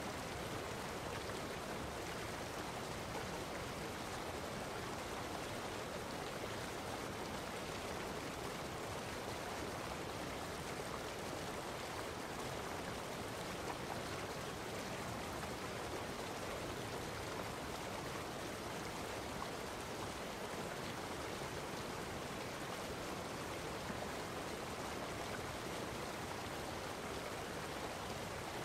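Steady, unchanging rush of water.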